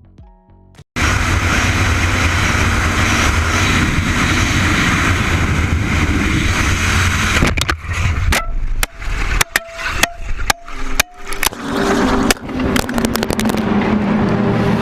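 Loud, steady road and engine noise from a moving car, starting abruptly about a second in; from about halfway on it breaks up into a run of sharp clicks and knocks.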